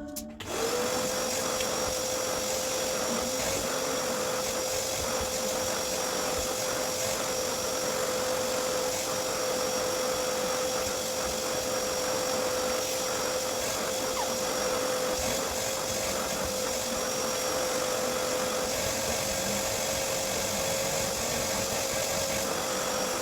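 Vacuum cleaner motor running steadily with a constant high whine, switched on about half a second in and switched off at the end.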